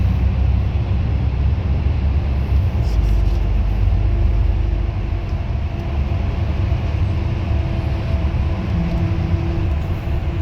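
Steady low rumble of a bus under way, engine drone and road noise heard from inside the cabin, with faint engine tones that drift slowly in pitch.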